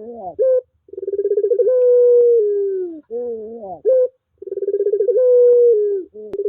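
Puter pelung turtle dove cooing: twice, a rapid fluttering start runs into a long drawn-out coo that steps down in pitch, with short rising warbled notes between the coos. One sharp click near the end.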